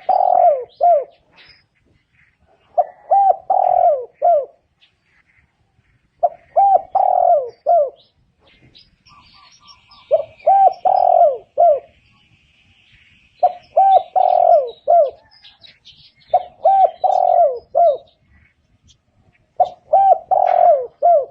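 Spotted dove cooing: the same short phrase of a few coos, repeated seven times, about every three and a half seconds. Faint chirps of other small birds sound in the background.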